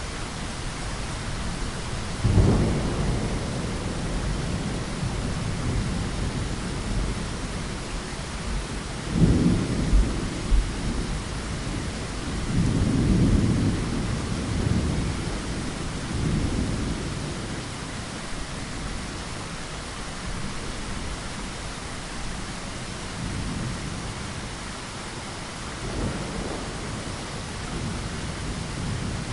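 Steady rain falling, with several low rolls of thunder: one a couple of seconds in, another around the middle, a longer rumble soon after, and a last one near the end.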